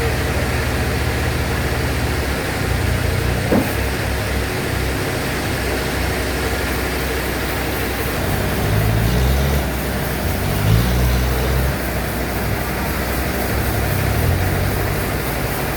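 Sawmill bandsaw machinery running: a steady mechanical drone with low tones that shift in pitch a few times in the second half.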